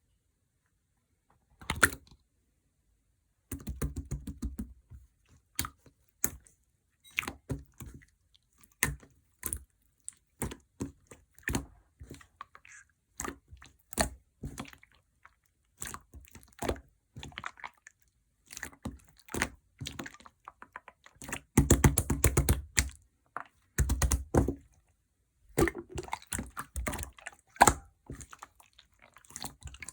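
Clear slime being squished and poked by hand, giving irregular sticky clicks and crackly pops, with denser bursts of squishing about 4, 22 and 24 seconds in.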